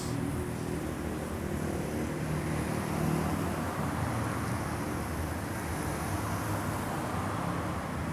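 Steady low rumble of outdoor street ambience.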